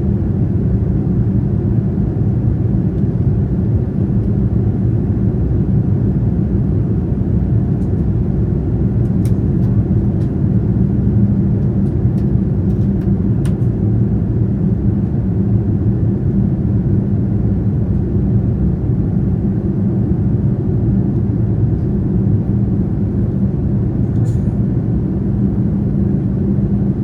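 Boeing 787-9 Dreamliner in flight, a steady low rumble of engines and rushing air, with a few faint clicks.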